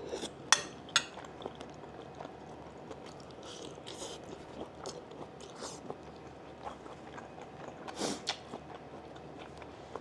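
A person chewing a mouthful of food close to a clip-on lapel microphone. There are two sharp clicks about half a second and a second in, with smaller ticks scattered through.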